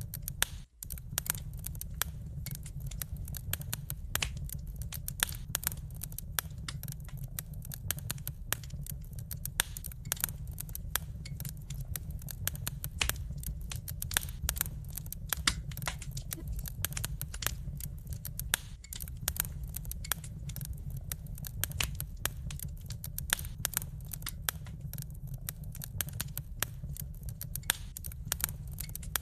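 Wood fire crackling, with many small sharp pops over a steady low rumble; the sound cuts out for an instant just under a second in.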